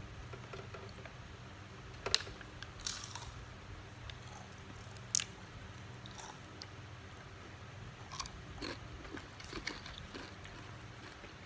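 Close-miked eating sounds: a person chewing and biting siomay fish dumplings in peanut sauce, with a few sharp mouth clicks and smacks, the loudest about two and five seconds in and a run of smaller ones near the end.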